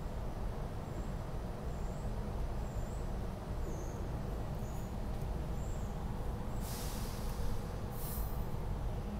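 Inside a SEPTA Regional Rail car moving slowly out of a station: the steady low rumble of the train running, with faint high chirps in the first half and two short hisses of air about two-thirds of the way through and again a second later.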